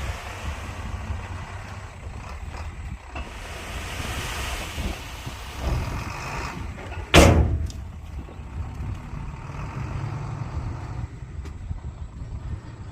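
Heavy diesel earthmoving machinery running with a steady low rumble. About seven seconds in there is a single sudden loud burst that dies away in under a second.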